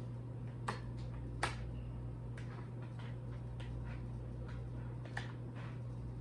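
Light clicks and taps of kitchen containers and utensils being handled: three sharper clicks and several fainter ticks, over a steady low hum.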